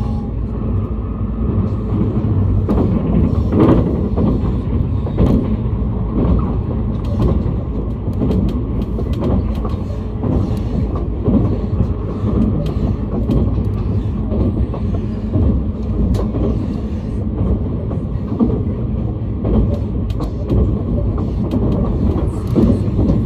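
JR East train running, heard from inside the carriage: a steady low rumble with frequent small clicks and knocks from the wheels on the track.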